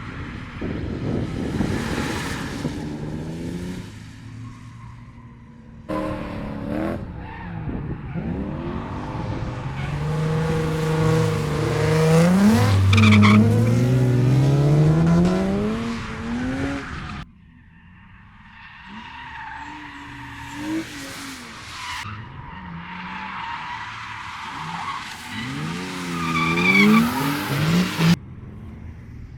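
Drift cars sliding through a corner, their engines revving up and down hard while the tyres squeal. The sound cuts abruptly between separate passes about three times, the loudest pass coming in the middle.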